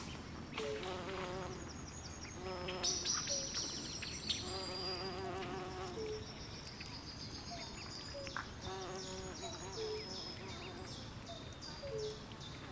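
Night swamp chorus of frogs and insects. Short trilling calls repeat every second or two, and quick high chirps come in a steady run through the second half. A low, even hiss of water runs underneath.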